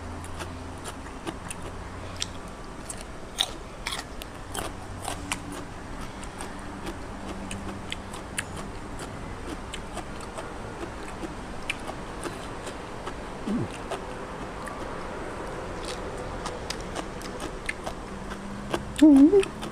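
Close-miked eating: a person chewing and crunching raw radish and seafood salad, with many small sharp crunch clicks and wet mouth sounds. A brief louder pitched mouth sound comes near the end.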